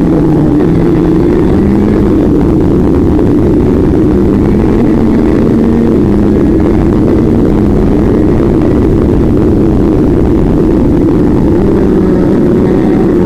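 Kart engine running hard on track, heard onboard, loud and continuous, its pitch rising and falling slowly with the revs.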